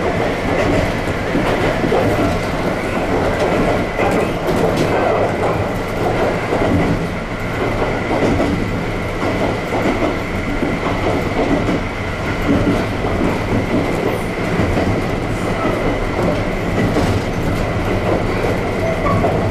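Hokuriku Railway 7000-series electric train (former Tokyu stock) running along the line, heard from the cab: steady rumbling wheel and running noise with occasional clicks, and a thin steady high tone above it.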